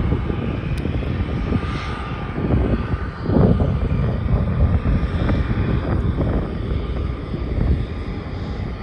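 Jet airliner engines running on the ground as aircraft taxi, a steady roar with a faint steady whine above it and a brief swell about three and a half seconds in.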